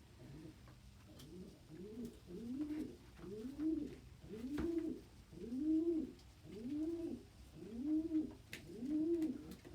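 Domestic pigeon cocks cooing in a steady run, about one coo a second, each rising and then falling in pitch, with two birds overlapping at times: the cocks' territorial cooing as they assert status over nest boxes.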